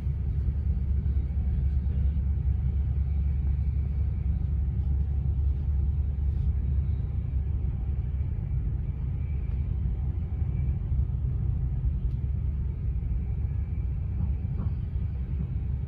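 Steady low rumble of a moving train heard from inside the passenger carriage: wheels on the rails and running gear.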